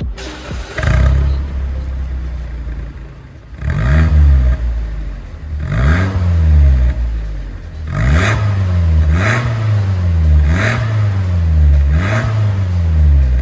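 Mazda2 1.5-litre four-cylinder through an MS-R valved cat-back exhaust, revved about six times in short blips, the pitch rising and falling back with each one and the blips coming quicker in the second half.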